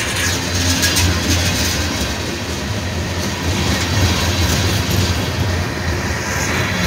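Freight cars of a manifest train rolling past close by: the steady noise of steel wheels running on the rail, with a strong low drone under it.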